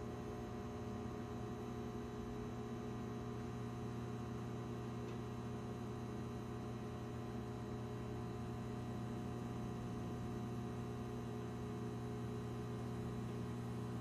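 Microwave oven running with a steady electrical hum, its magnetron and transformer humming at an even level with no popping.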